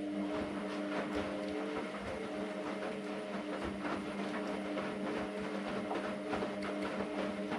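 AEG Lavamat Turbo washer-dryer turning its drum during a 60 °C wash: a steady motor hum with towels tumbling in the drum and many irregular small knocks.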